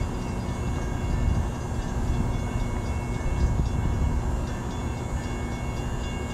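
Steady low rumble of a train, with a few steady tones held over it.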